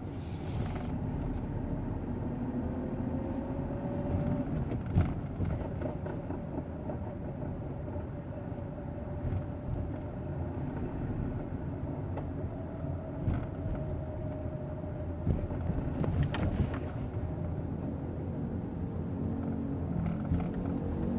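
Hyundai EON running at low rpm with a continuous grinding noise, which the owner calls severe. A faint steady whine sits over the rough drone, with a few short clicks.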